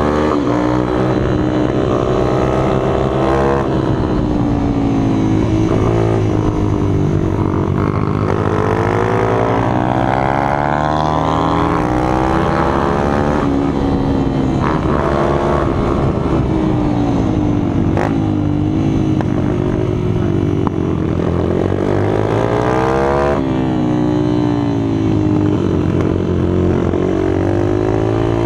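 Several small minibike engines running at once, revving up and down so that their pitches rise and fall and cross one another.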